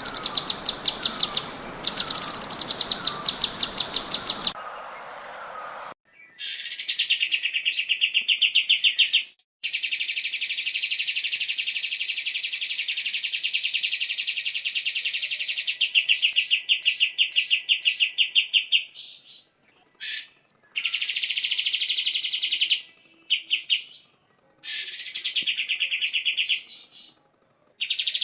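Recorded songbird song used as tutor song for training murai: rapid high trills over a background hiss for the first few seconds, then after a short break long, fast-pulsed trilling phrases of one to several seconds each with brief pauses between them.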